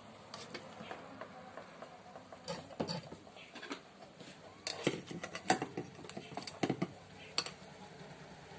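Scattered light clicks and knocks of small hard objects being handled, irregular, the sharpest a little past the middle.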